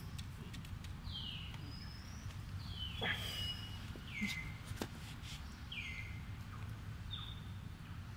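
Short bird calls repeated about once a second, each a quick note sliding down in pitch, over a steady low outdoor rumble, with a few faint clicks.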